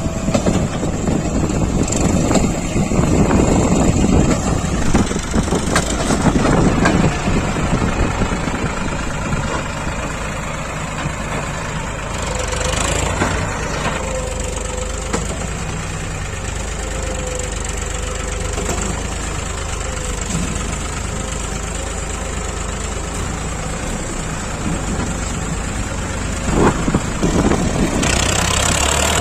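Heavy diesel machinery engine running under load, rough and louder for the first several seconds, then settling to a steadier, slightly quieter run.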